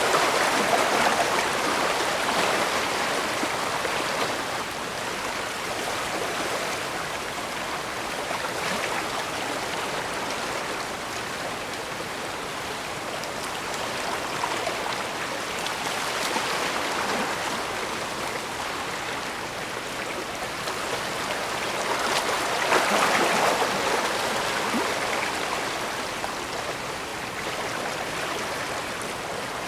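Bay water washing in a steady rush. It swells louder at the start and again about two-thirds of the way through.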